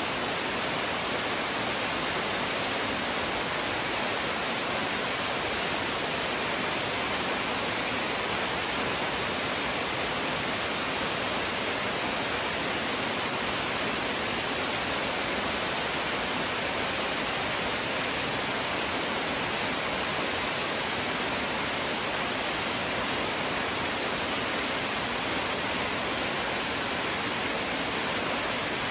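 Steady rush of a waterfall, an even unbroken noise with no changes.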